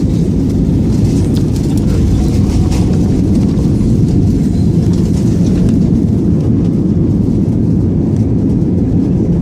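Steady low rumble heard inside the cabin of an Airbus A320 airliner: engine and airframe noise.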